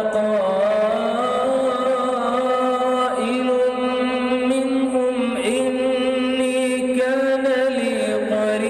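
A man's voice reciting the Quran in a slow, melodic chant, holding long notes that bend gently up and down.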